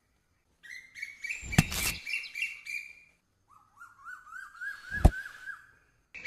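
Bird-like chirping and whistling in two short spells that start and stop abruptly: first a high whistle with quick chirps, then a lower run of about nine rising chirps, with a single sharp click in each spell.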